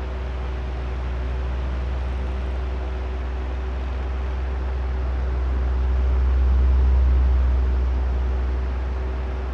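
Oscillating electric fan running: a steady rush of air over a low motor hum. The airflow swells louder about two-thirds of the way through as the fan head swings past, then eases off.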